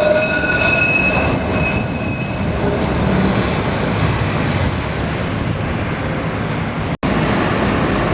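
Heritage tram running on street rails: a high, ringing wheel squeal fades out in the first second or two, leaving a steady rumble of wheels on track. The sound cuts out abruptly for an instant near the end.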